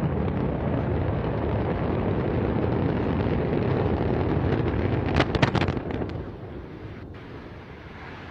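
Antares rocket's first-stage engines roaring in flight, then a cluster of sharp cracks about five seconds in as the launch fails and the rocket explodes. The rumble then fades away.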